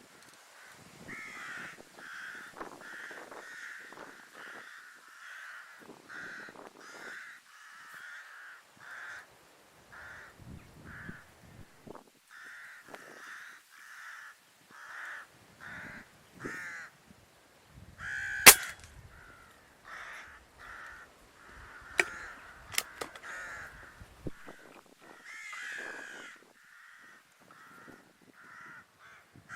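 Crows cawing over and over in quick runs of calls. About two-thirds of the way through there is one loud sharp crack, followed by a few fainter clicks.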